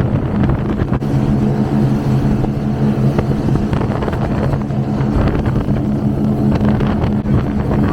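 Twin V8 engines of an Avanti 33 powerboat running at a steady speed, a constant drone over a rushing noise.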